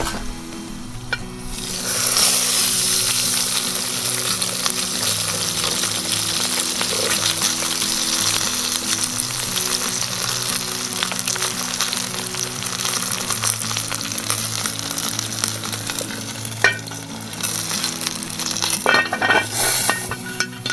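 Steady sizzling hiss with fine crackles, starting about two seconds in, over soft background music.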